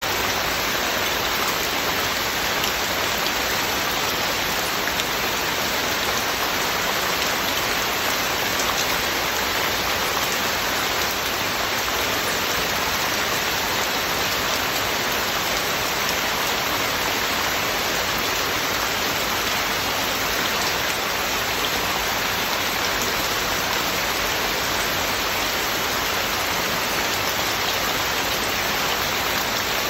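Heavy rain falling steadily: a dense, even hiss of rain on surfaces that stays at a constant level throughout.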